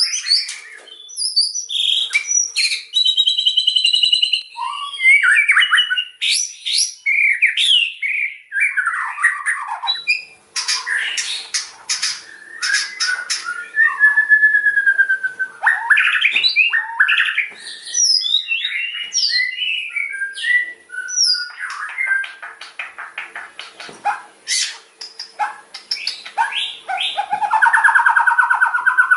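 White-rumped shama (murai batu) singing loudly in a fast, varied run of whistled and sweeping notes and rapid trills, with a dense buzzy trill near the end.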